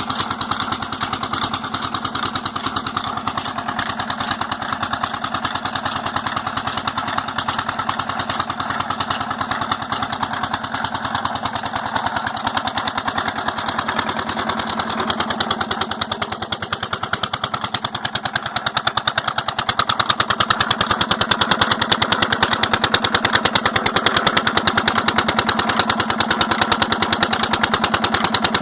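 16 hp diesel engine driving a high-pressure water pump, running steadily with a rapid, even beat of firing strokes that gets louder about two-thirds of the way through.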